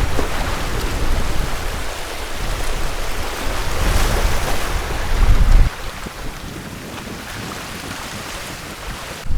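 Sea surf washing on a beach, with wind buffeting the microphone; the wind rumble drops away about two-thirds of the way through.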